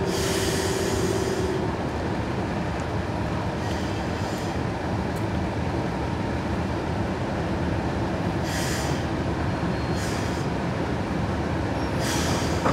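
Diesel-hauled train running: a steady rumble, with a held tone that fades out about two seconds in and short bursts of high hiss every few seconds.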